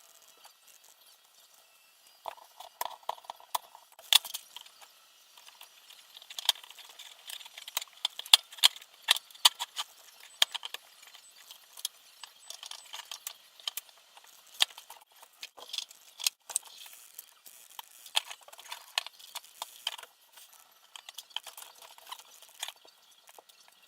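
Small hard parts and tools clicking, clinking and rattling while being handled during hand assembly of a quadcopter frame. The clicks come irregularly, in quick clusters, from about two seconds in.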